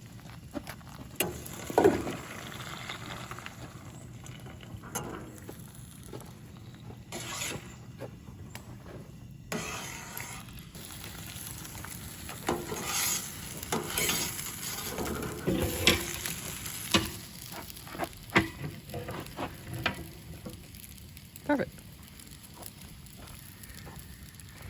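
Eggs frying and sizzling in a pan, with scattered clicks and scrapes of a utensil against the pan.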